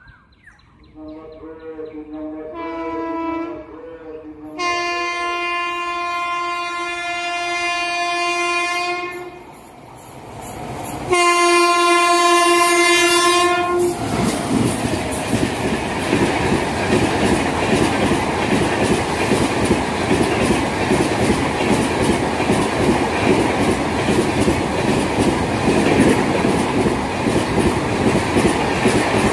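Indian Railways WAP-7 electric locomotive sounding its horn as it runs through at high speed: the horn grows louder from about a second in, holds a long blast of about four seconds, breaks briefly, then gives a second blast as the locomotive passes. After that come the loud rush of the coaches and the rapid clatter of their wheels over the rail joints.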